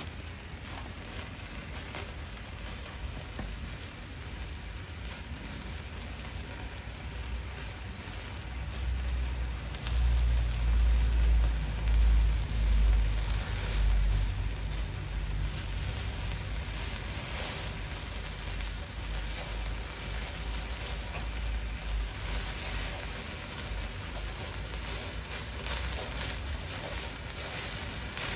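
Horumon (offal) sizzling on a grill over a wood campfire, with scattered crackles from the fire and rain falling. A low rumble swells for several seconds about a third of the way in.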